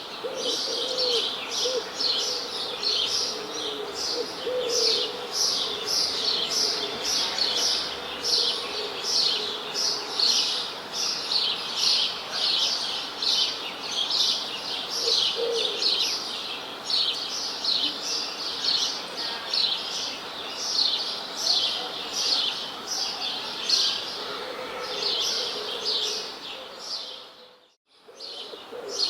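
A flock of small songbirds chirping continuously in a dense stream of rapid, high-pitched chirps, with a few lower calls now and then. Near the end the sound fades out briefly and then starts again.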